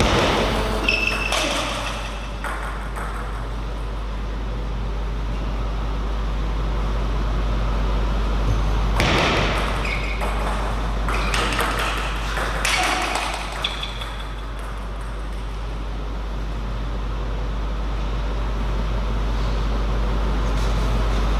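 Table tennis ball clicking off bats and the table in two short bursts of play: one at the start, and one from about nine to fourteen seconds in. A steady low electrical hum runs underneath.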